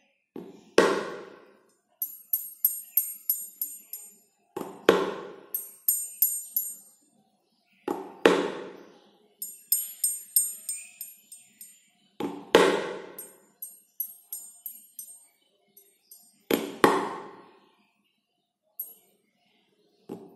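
Background music: a percussion loop with a deep struck hit about every four seconds, and quick runs of tambourine-like jingles in between.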